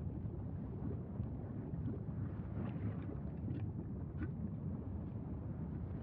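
Wind buffeting the microphone: a steady low rumble with a few faint scattered clicks.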